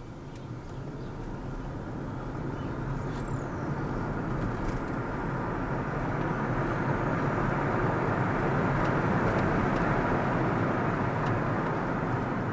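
A car driving on the road: tyre and engine noise with a steady low hum, growing steadily louder over about ten seconds and easing slightly near the end.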